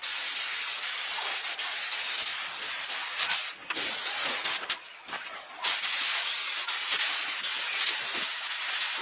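Steady hiss of a high-pressure spray jet, cut off briefly twice partway through.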